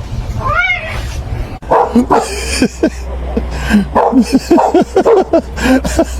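A cat meows once. Then a dog barks in a fast run of short, sharp barks and yips, several a second.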